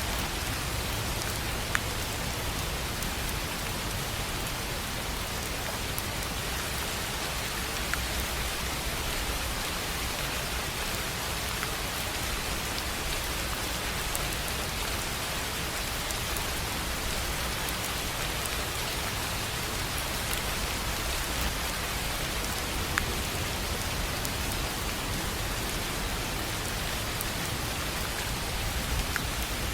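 Steady rain falling on a tin roof: an even hiss with occasional sharper single drop ticks.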